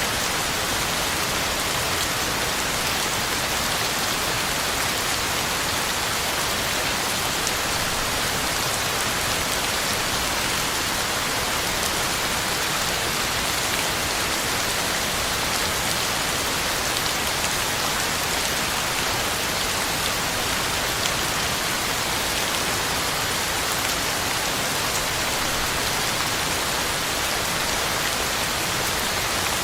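Steady heavy rain falling on the ground and leaves, an even hiss with a dense patter of drops.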